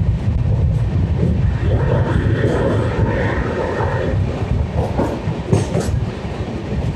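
Chauri Chaura Express passenger coach running at speed, heard from its open door: a steady low rumble of wheels on the track, with sharp clicks of the wheels over rail joints near the end.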